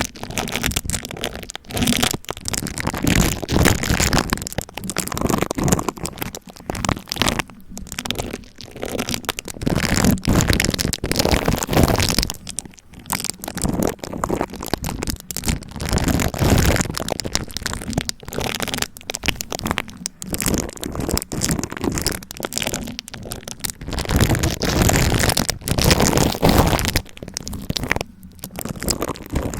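Plastic cling wrap over a microphone being handled, giving a loud, dense, irregular crackling and crinkling that swells and eases in waves.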